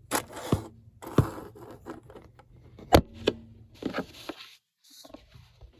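Handling noise on a table: a series of sharp knocks and clicks, with some scraping between them, as a phone and coloring things are set down and moved about.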